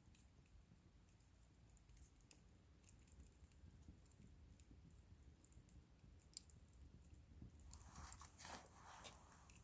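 Faint crackling of a wood bonfire: scattered small pops, one sharper pop about six seconds in, and a denser spell of crackling near the end.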